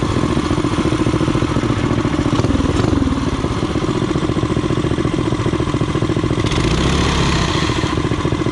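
Small single-cylinder four-stroke engine of a Coleman CT200U minibike running near idle, with a brief rise and fall in revs about two and a half seconds in and a heavier, deeper stretch about six and a half seconds in.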